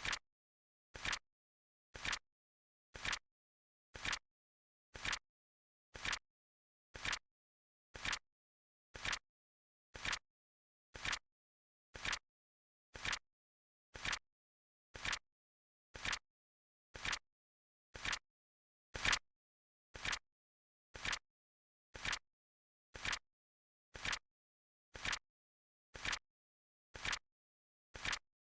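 Flip clock timer sound effect: a short, sharp click once every second, with silence between. One click about two-thirds of the way through is slightly louder.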